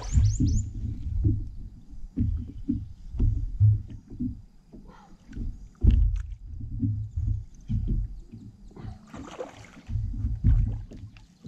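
Irregular low knocks and rumble of handling on a fishing boat while a bass is fought on rod and reel, with a brief hiss about nine seconds in.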